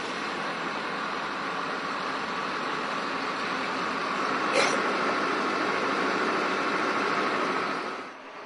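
Steady running noise of a moving vehicle, with a single sharp knock about halfway through; the noise dies down near the end.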